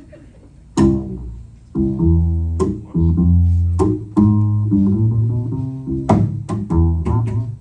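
A walking bass line starting about a second in, one low plucked note after another, with other instruments playing along and several sharp accented hits.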